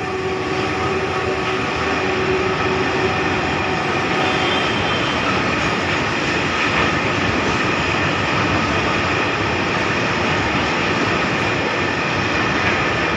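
Steady rumble and rattle of a freight train's bogie open-bottom (BOB) hopper wagons rolling past on the rails, wheels running continuously over the track.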